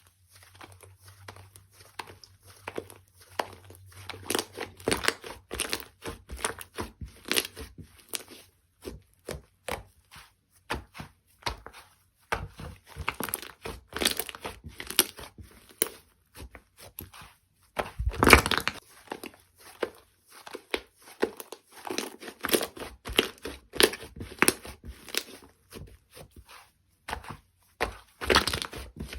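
Slime being pressed, stretched and poked by hand, giving irregular sticky clicks and pops, with denser, louder bursts about eighteen seconds in and again near the end.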